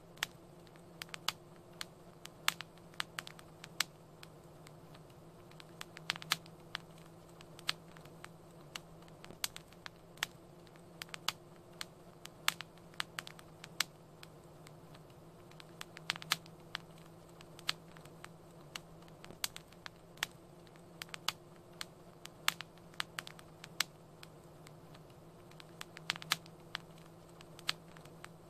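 Wood fire crackling: irregular sharp pops and snaps, a few a second, over a low steady hum.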